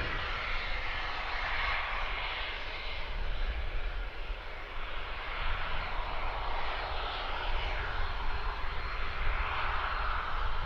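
Twin turbofan jet noise from an Embraer 505 Phenom 300 business jet: a steady rushing that swells and eases slightly.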